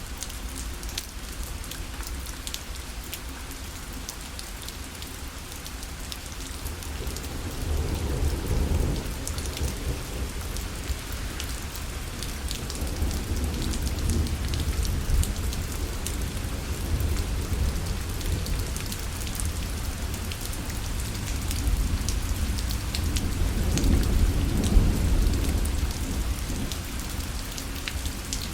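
Rain pattering on a parasol, a dense spray of drops with single drops ticking on the fabric. Low thunder rumbles swell up twice, about a third of the way in and again near the end.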